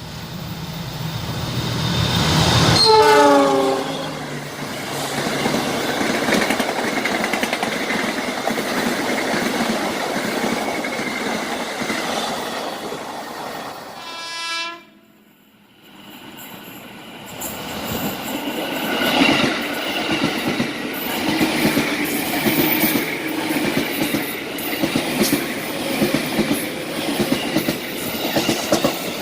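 Train passing at speed: a rising rush of wheels on rail, a short horn blast about three seconds in and another near the middle. The sound drops away suddenly just after the second horn, then rail noise builds again with a regular clickety-clack of wheels over rail joints.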